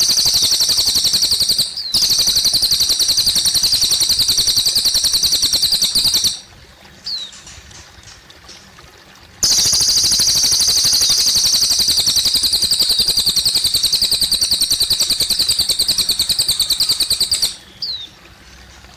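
Cililin bird singing in long, rapid, very high trills of six to eight seconds each, with a pause of about three seconds between them that holds a few short down-slurred chirps. Faint trickling water runs underneath.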